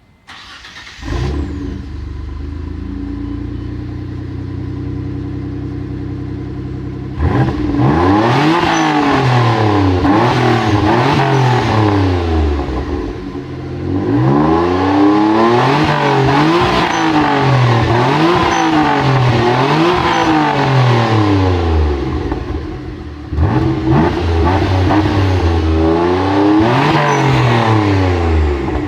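Mitsubishi 3000GT VR-4's twin-turbo V6 through an IPS Motorsports quad-tip exhaust with a 3-inch downpipe and high-flow cat. The engine starts about a second in and idles steadily. From about seven seconds in it is revved over and over in quick blips, each a rise and fall in pitch lasting a second or two.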